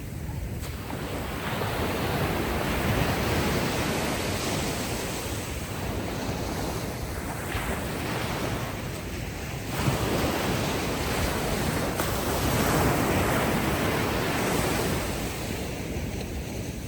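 Ocean waves breaking and washing up the shore, with wind: the surf swells and ebbs twice, loudest a few seconds in and again past the middle.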